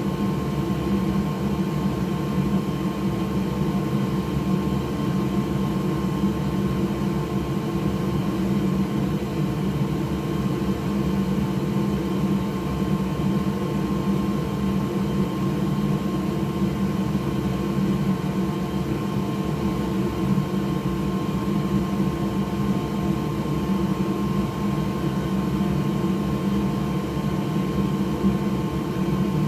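Hot-air rework station blowing steadily, a constant fan whir with a faint steady hum, while heat soaks solder through the posts of a PS5 HDMI port.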